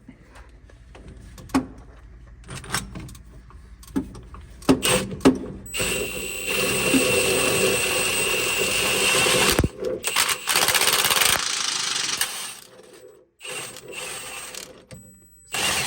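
A few sharp metal knocks, then a power tool running steadily for about six seconds with a short break partway, on a bus suspension being taken apart.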